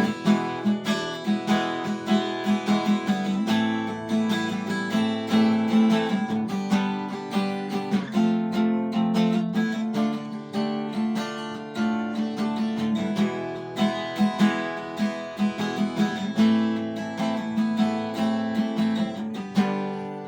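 Acoustic guitar strummed in a steady rhythm through an instrumental break in the song; near the end the strumming stops and the last chord fades out.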